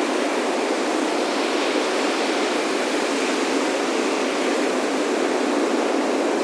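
Ocean surf washing onto a beach: a steady, even wash of wave noise with little deep rumble.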